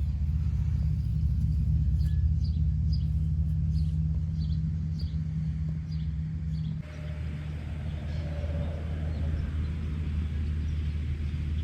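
A small engine running steadily at an even pitch, with birds chirping over it in the first half. The drone changes abruptly about seven seconds in.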